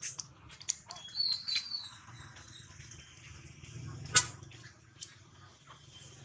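Scattered light clicks and taps, with a short high chirping animal call about a second in and one sharp, louder click a little after four seconds.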